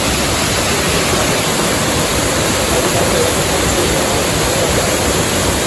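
Steady rush of flowing water from a stream, an even hiss that does not change, with faint voices underneath.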